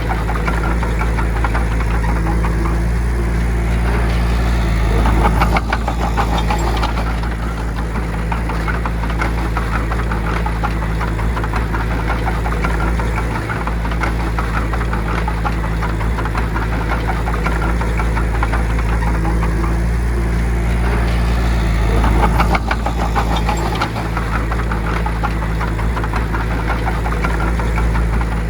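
Bulldozer's heavy diesel engine running steadily at work, briefly louder twice, about five seconds in and again past twenty seconds.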